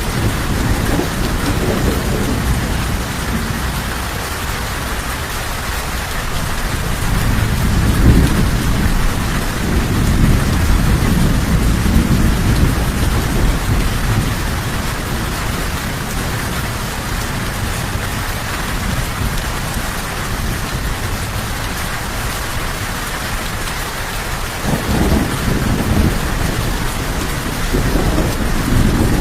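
Steady heavy rain, with low rolling thunder swelling about a quarter of the way in and again near the end.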